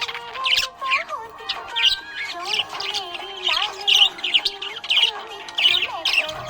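Budgerigar chirping in short, quick bursts, about two a second, over background music with a sustained melody.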